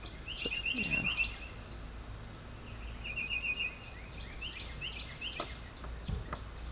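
A songbird singing in short runs of rapid, high chirps, over a low steady outdoor background, with a few faint clicks.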